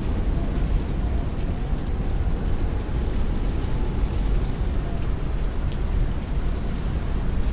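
Heavy rain hitting a window while strong wind rushes past: a steady, dense wash of noise with a deep rumble underneath.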